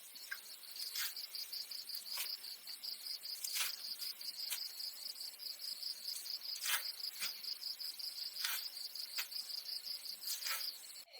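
Insects trilling steadily in a high, fast-pulsing chirr, with scattered short knocks or taps about once a second.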